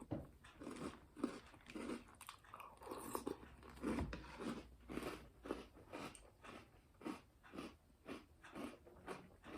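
Chewing a mouthful of Cocoa Puffs cereal in milk: soft, faint crunches in a steady rhythm of about two to three chews a second.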